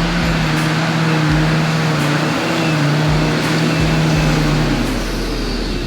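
Off-road 4x4's engine held at steady high revs under load on a muddy hill climb, easing off about five seconds in.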